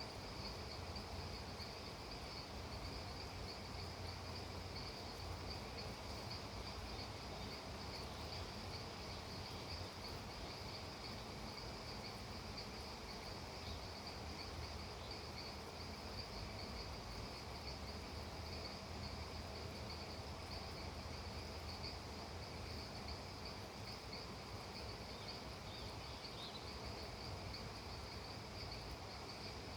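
Insects, crickets by their steady high trill, chirring continuously over a faint, even background hiss.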